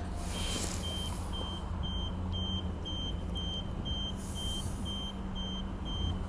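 Train's door-closing warning beeping, short electronic beeps about two a second over the steady low hum of the train standing at the platform. Two brief hisses, one just after the start and one about two-thirds through.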